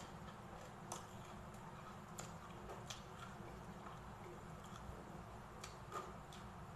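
Chewing sounds of someone eating crisp-fried pork belly and rice: scattered sharp smacks and clicks, the loudest about six seconds in, over a steady low hum.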